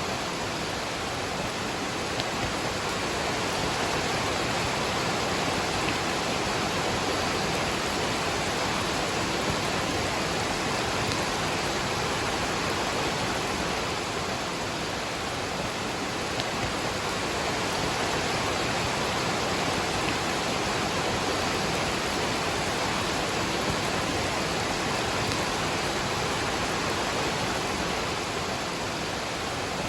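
Waterfall and falling rain: a steady, even rush of water.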